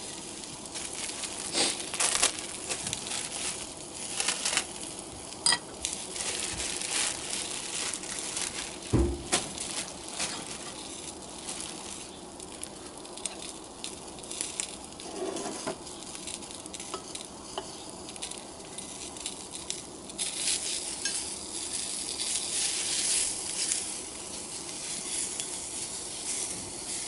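Food sizzling in a hot cast iron skillet, a steady hiss with scattered clicks and knocks of utensils against the pan. The sizzle grows louder about two thirds of the way through.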